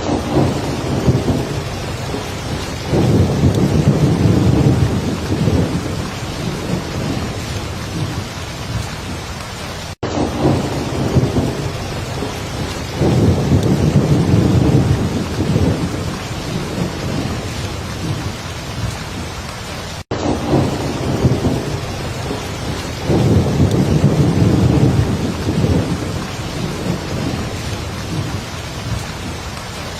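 Heavy rain falling steadily, with a low rumble of thunder every ten seconds. The same ten-second stretch repeats as a loop, with a brief dropout at each loop point.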